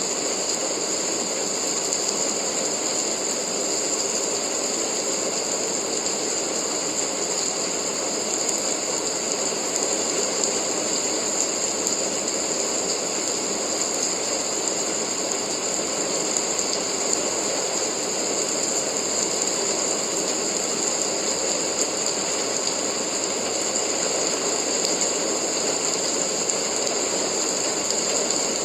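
Steady rain recording used as white noise: a dense, even hiss that does not change.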